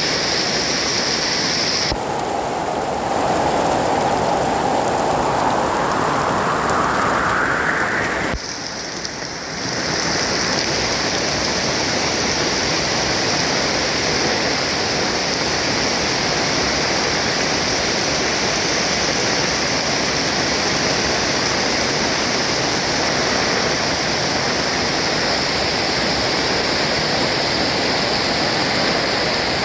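Heavy rain pouring down steadily. About two seconds in, a tone rises slowly in pitch for several seconds, then the sound drops briefly before the downpour resumes.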